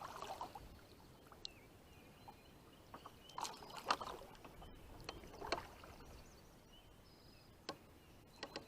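Kayak on the water: a few light paddle splashes and knocks against the hull as it drifts slowly up to a line.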